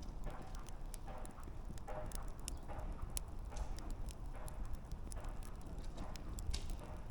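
Wood campfire crackling, with irregular sharp pops and snaps over a steady low rumble of burning.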